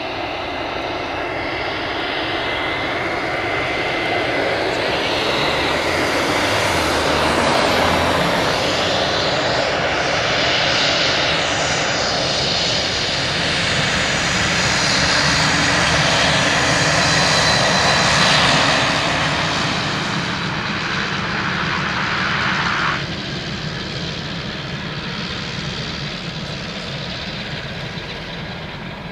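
Pilatus PC-12's single Pratt & Whitney PT6A-67B turboprop engine at takeoff power, growing louder with shifting, sliding pitches as the aircraft passes, then fading as it climbs away. The sound drops suddenly about three-quarters of the way through.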